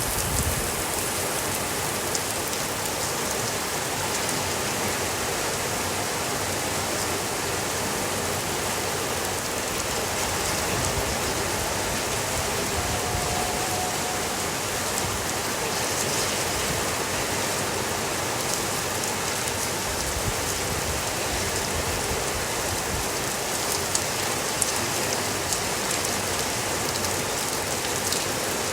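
Steady rainfall, an even hiss, with a few faint sharp ticks of drops or small crackles scattered through it.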